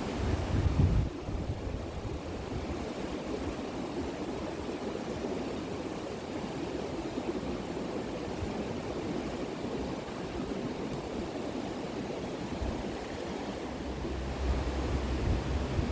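Steady rushing outdoor noise, with gusts of wind buffeting the microphone about a second in and again near the end.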